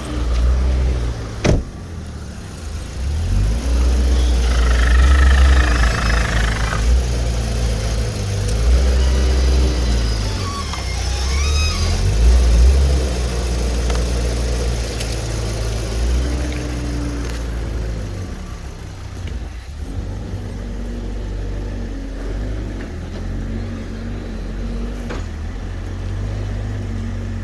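VW Golf 5's 1.6 FSI (BLF) four-cylinder petrol engine idling and being revved several times in a test run, each rev rising and falling back to idle.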